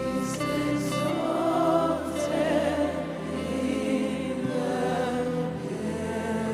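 Live gospel worship music: steady held chords with many voices singing freely over them, their pitches sliding and wavering.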